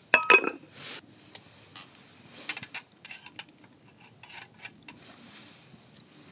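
Cookware and utensils clinking: a few loud ringing metal clinks at the start, then scattered light taps and clicks.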